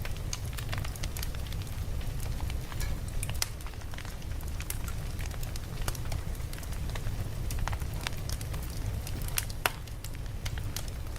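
Campfire crackling: irregular sharp pops and snaps from burning wood over a low, steady rumble of the flames, with one louder pop late on.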